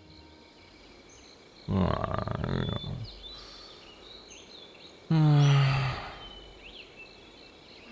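Animated forest ambience with faint bird chirps, broken by two louder sounds about a second long each, one about two seconds in and one about five seconds in.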